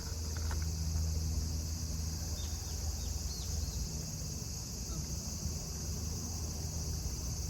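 Steady background drone: a high, even insect buzz over a low steady hum, with a few faint short chirps about three seconds in.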